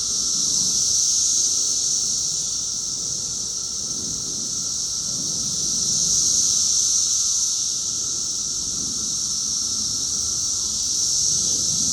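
Cicadas singing in chorus, a steady high-pitched buzz that slowly swells and eases.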